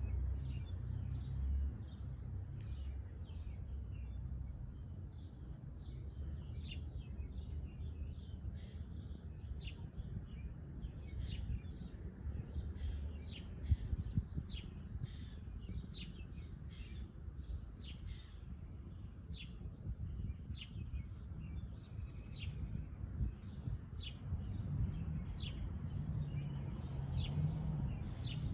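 Songbirds chirping and tweeting: many short, high chirps following one another closely throughout, over a low steady background rumble. A single brief knock sounds about halfway through.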